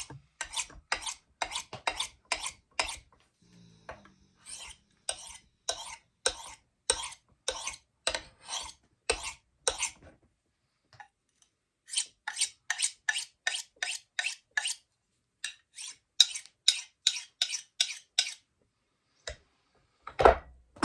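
Steel knife edge drawn in short, rapid strokes along a ceramic honing rod: crisp scraping strokes, about two to three a second, in two runs with a brief pause between and a single stroke near the end. This is the final honing pass on the Scandi grind of a CPM 3V knife.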